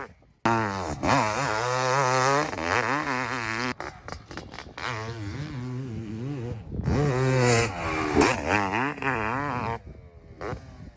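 Two-stroke motocross bike engines revving hard, the pitch climbing and dropping repeatedly through the gears. Several short clips are cut together, so the sound breaks off suddenly a few times.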